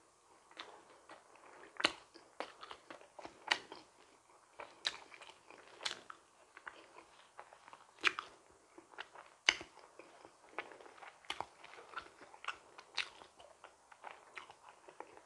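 A person chewing donut up close to the microphone: irregular wet mouth clicks and smacks, with a few louder ones now and then.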